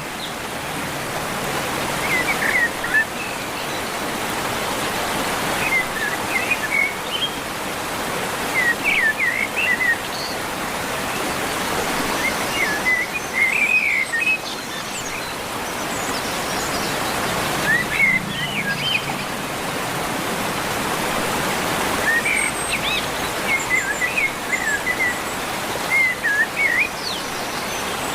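Birds chirping in short, quick phrases every few seconds over a steady rushing hiss, like running water or rain.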